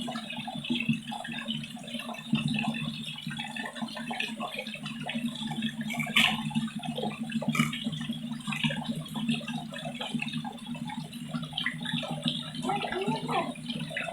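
Spring water pouring steadily from a makeshift spout into a jerrycan as it fills. Two sharp knocks come about six and seven and a half seconds in.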